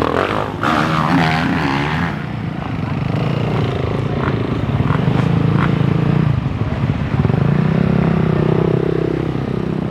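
Motocross bike engines revving, the pitch rising and falling.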